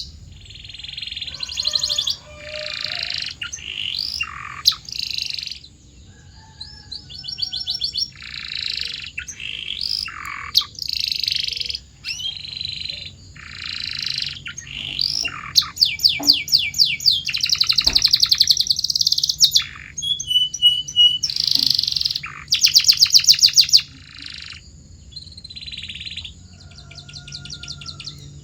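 Domestic canary singing a long, varied song: high-pitched rapid trills and buzzy rolls in phrases of one to two seconds, one after another with short breaks.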